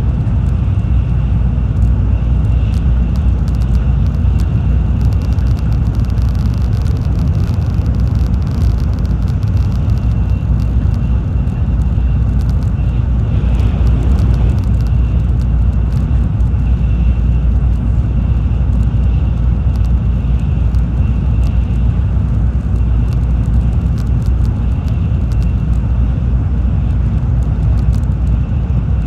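Tokaido Shinkansen train running at speed, heard from inside the passenger cabin: a steady low rumble of wheels, track and air, with a faint steady high tone above it.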